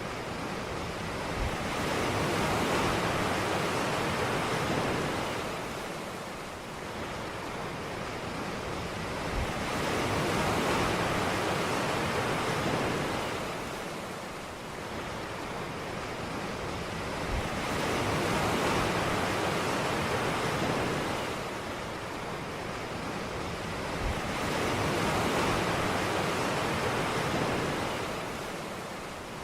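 Ocean waves washing onto a beach, the surf swelling and falling back about every seven or eight seconds, four times.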